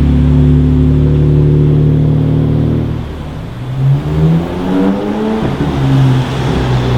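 Car engine running at a steady pitch, then revved in a couple of rising and falling blips from about halfway.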